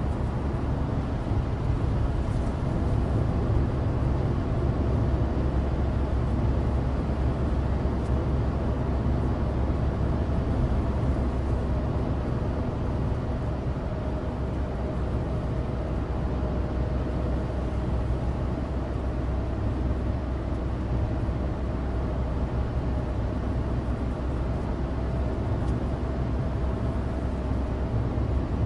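Inside the cabin of a Suzuki Alto Turbo RS (HA36S): its 660 cc turbocharged three-cylinder engine runs steadily under the road noise of studless winter tyres on a dry road.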